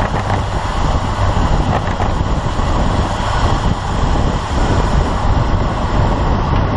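Wind buffeting and road noise on a cyclist's camera microphone while riding: a loud, steady, fluttering rumble.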